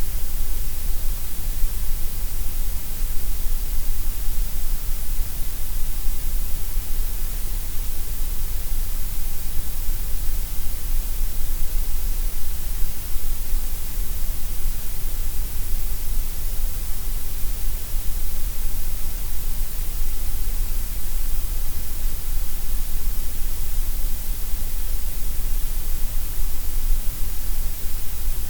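Steady gray noise, a synthetic hiss shaped so that all pitches seem equally loud, with the lows and highs stronger than the middle range. It runs unchanged, with no breaks.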